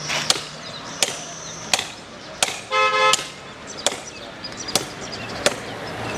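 Regular sharp strikes, about one every three quarters of a second, with a car horn sounding once briefly about three seconds in.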